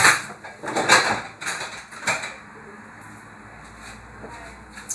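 Kitchen handling noises: four or five short scraping knocks of utensils in the first two seconds, then quieter.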